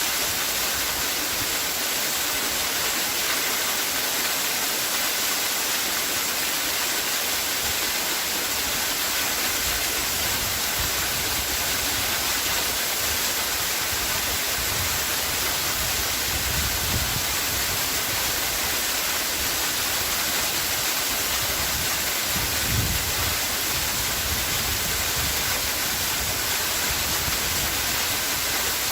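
Waterfall: falling water making a steady, even noise, with a couple of brief low rumbles in the middle.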